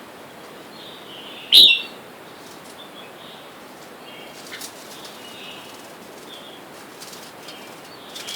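Red-whiskered bulbuls giving soft, short chirps on and off, with one sudden loud burst about a second and a half in.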